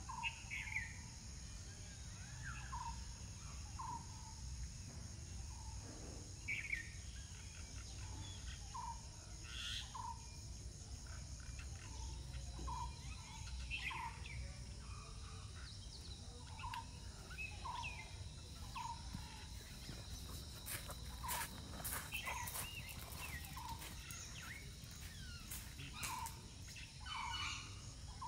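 Birds calling: short chirps repeated about once a second, some sweeping higher. Behind them is a steady high insect drone and a low rumble, with a few sharp clicks in the second half.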